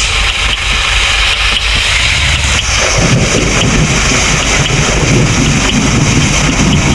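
A vehicle engine running under a steady hiss like wind on the microphone. About three seconds in, a heavier low rumble joins.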